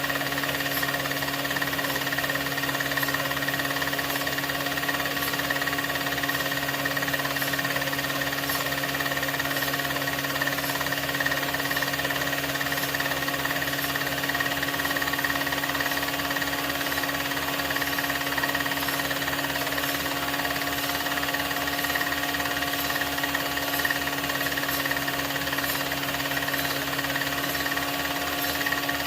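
16mm film projector running: a steady mechanical hum over a rapid, even clatter from the film mechanism.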